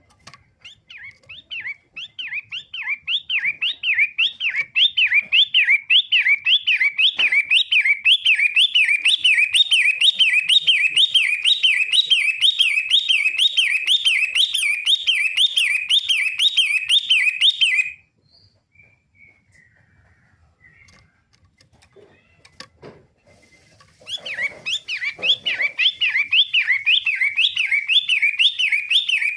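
Pentet matahari, a shrike kept as a songbird, calling in a fast, evenly repeated up-and-down whistled phrase of about two to three notes a second. The calling grows louder over the first few seconds, breaks off abruptly about 18 seconds in, and starts again about six seconds later.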